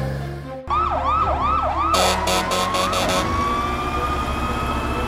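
Fire engine siren starting up: a fast yelp rising and falling about three times a second, which settles into a long, slowly rising wail about two seconds in. A quick run of short loud blasts sounds over the siren around two to three seconds in.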